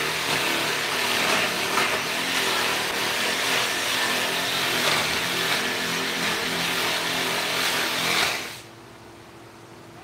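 An electric power tool runs under load as it works wood, with a loud, gritty hiss and a motor whine that shifts in pitch. It cuts off suddenly about eight and a half seconds in, leaving a faint hum.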